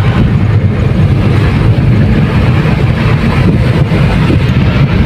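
Vehicle on the move: a steady low rumble of engine and road noise, with wind buffeting the microphone.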